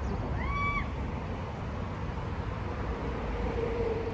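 An animal's single short, high call, rising then falling, about half a second in, over a steady low rumble.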